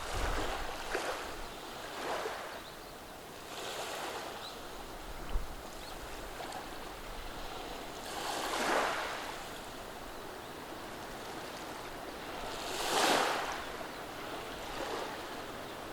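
Small calm-day waves washing over a beach of rounded cobbles, a steady hiss with swells as each wave comes in. The two biggest surges come a little past halfway and near the end.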